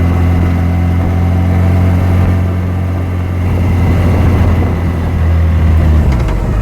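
Yamaha FJR1300's inline-four engine running at a steady speed, with a brief dip and recovery in pitch near the end.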